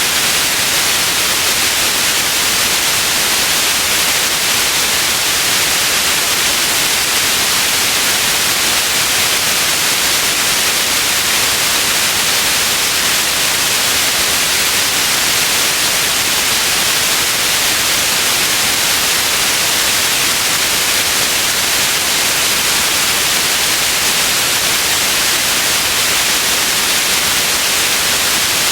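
Steady white noise, an even hiss weighted toward the high end, with no change.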